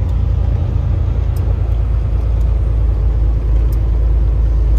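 Steady low rumble of a car-hauler truck driving, engine and road noise heard from inside the cab, with a few faint high ticks.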